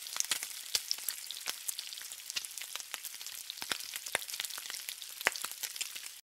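Food sizzling on a hot flat-top griddle, a steady frying hiss with many sharp crackles and pops spattering through it. It cuts off suddenly near the end.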